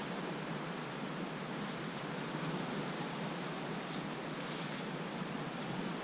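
Steady hiss of wind and waves on a lake, with a couple of brief splashy rushes about four seconds in.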